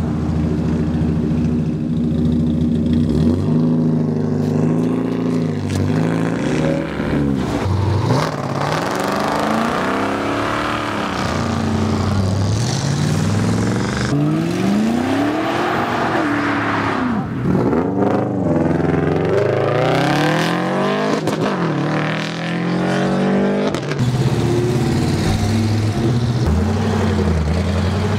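Car engines revving hard as cars accelerate away, the pitch climbing and dropping again and again through the middle of the stretch, with steadier engine running at the start and near the end.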